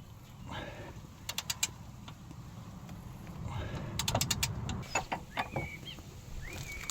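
Hand tools at work on a car: two runs of quick, light clicks, the second and louder one about four seconds in, then short high squeaks near the end.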